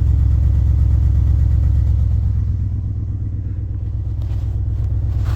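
Chevrolet/GMC 5.7-litre V8 idling through true dual exhaust, a steady low rumble with a fast even pulse. It dips slightly in loudness around the middle and then comes back up. The engine is still cold, just after a cold start at 18 °F.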